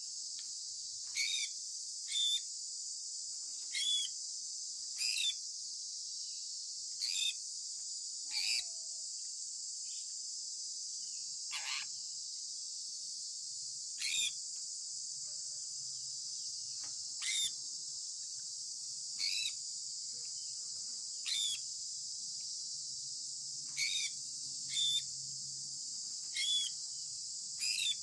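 Sun conure parrot chirping: short calls that each drop quickly in pitch, repeated every one to two seconds, with one longer call about halfway through. A steady high hiss runs underneath.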